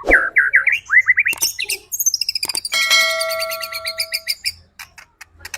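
White-rumped shama (murai batu) singing loudly: a quick run of repeated sliding whistled notes, then high sweeping notes, then a held ringing note lasting about a second and a half in the middle, ending in scattered short notes.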